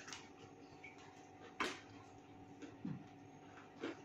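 Quiet chewing and mouth smacks of people eating burgers, with a few short sharp clicks, the sharpest about a second and a half in.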